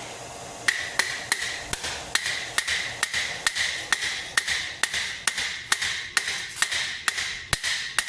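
Hammer striking steel armor, a steady run of blows at about three a second, each ringing metallically, starting a little under a second in: rivets being peened on a steel great helm.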